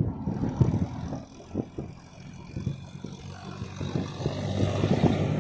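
An engine running steadily with a low hum, with wind buffeting the microphone in repeated rumbling gusts.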